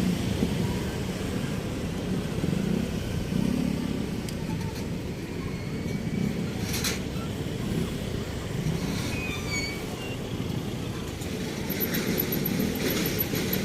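Steady rumble of road traffic, with a brief sharp sound about seven seconds in.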